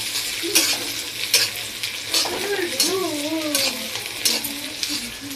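Chicken frying in a pan with a steady sizzle, stirred by a spatula that scrapes against the pan about eight times, well under a second apart.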